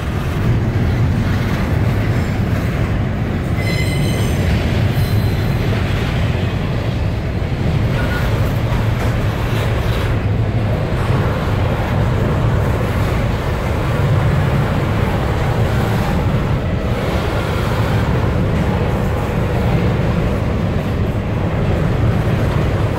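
Double-stack container well cars of a freight train rolling past: steel wheels on the rails give a steady, loud rumble. About four seconds in there is a brief high-pitched tone.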